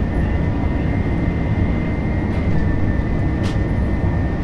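Steady low rumble of a subway train running, heard from inside the car, with a thin high whine that steps down slightly in pitch about halfway through. There is a single short click a little after the middle.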